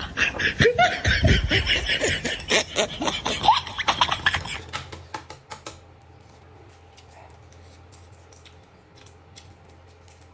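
A person laughing, loud and in quick bursts, for about four and a half seconds, then an abrupt drop to a quiet stretch with a low hum and scattered faint clicks.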